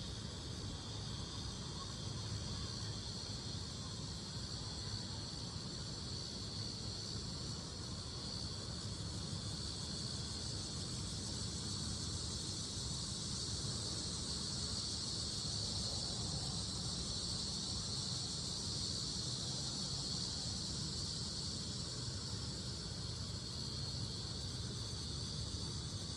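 Cicadas singing in a continuous, steady high-pitched chorus, over a low steady rumble.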